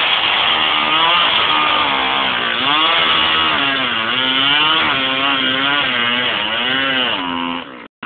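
Two-stroke chainsaw engine running at high speed, its pitch wavering up and down again and again as the throttle and load change. It cuts off abruptly near the end.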